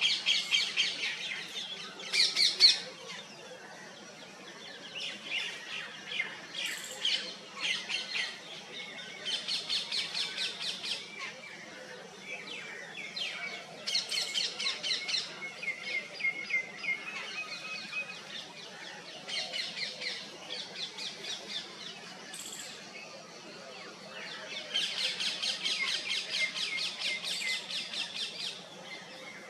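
Small birds calling in about ten separate runs of rapid, high chirps, each run lasting one to three seconds with short pauses between them.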